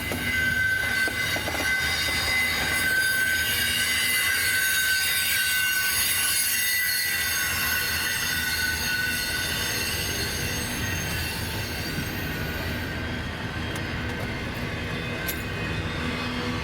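A train rolling past with its wheels squealing: several steady high-pitched tones over a low rumble. The squeal is strongest in the first half, and the hiss in the highest range drops away about two-thirds of the way through.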